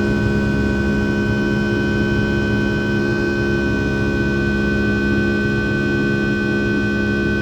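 Rolls-Royce RB211-535E4 turbofan engines of a Boeing 757-200 heard inside the cabin, running at a steady power: a constant drone over a low rumble, with several steady tones layered on it.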